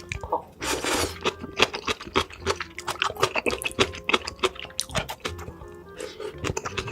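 Close-miked eating: rapid wet chewing and smacking clicks with a longer noisy slurp about a second in, over background music.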